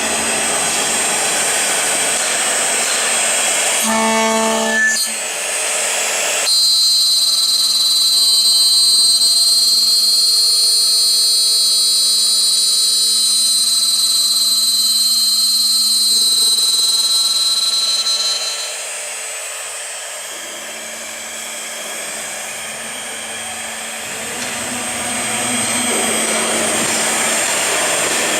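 Aluminium-profile CNC drilling and milling machine at work, its high-speed spindle running with a steady high-pitched whine from about six seconds in. The whine drops out and the sound is quieter for a few seconds past the middle, then the machine noise rises again near the end.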